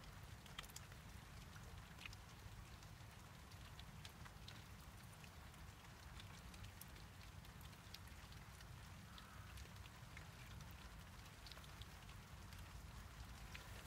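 Faint light rain: scattered, irregular drops ticking on surfaces over a quiet steady background.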